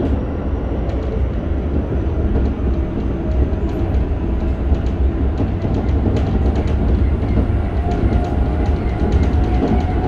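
Keikyu 1000 series train with Toyo IGBT-VVVF drive, heard from inside a motor car while running: a steady deep rumble of wheels on rail with scattered clicks from the track. A faint steady whine comes in about two-thirds of the way through.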